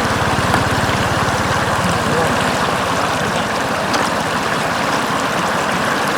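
Floodwater flowing in a steady, continuous rush.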